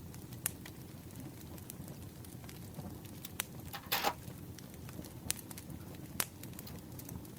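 Campfire crackling: a steady low rumble of flames with scattered sharp pops, and one brief, louder noise about four seconds in.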